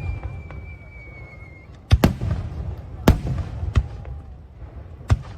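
Aerial fireworks: a whistling shell's whistle falls in pitch and fades out, then sharp bangs of shells bursting, two close together about two seconds in, another a second later and one more near the end, over a low rumble.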